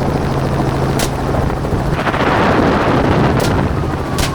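Helicopter rotor and engine running steadily, with three single gunshots: one about a second in and two close together near the end.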